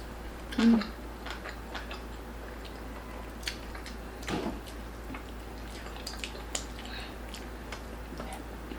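Eating sounds of crispy lechon belly: scattered crunches, crackles and small clicks of chewing and handling the food, with a louder brief sound just under a second in and another at about four and a half seconds.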